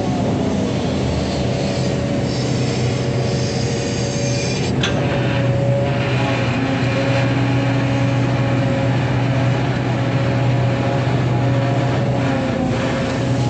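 Excavator's diesel engine running steadily under load, with a steady whine over the engine hum, and a sharp click about five seconds in.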